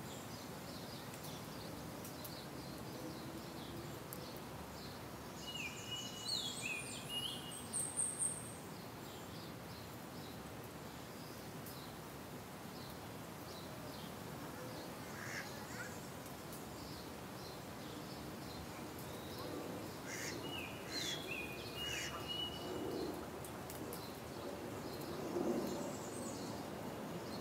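A songbird singing a short phrase of high, quick notes twice, about six seconds in and again about twenty-one seconds in, over steady faint background noise with scattered faint high chips.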